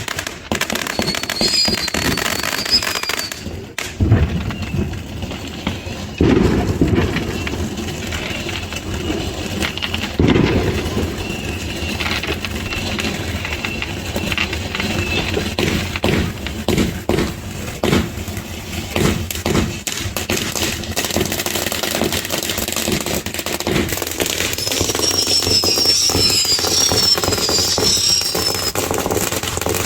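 Garden fireworks (fountains and missiles) going off: dense crackling throughout, with sharp bangs about 4, 6 and 10 seconds in, and wavering high whistles near the start and again near the end.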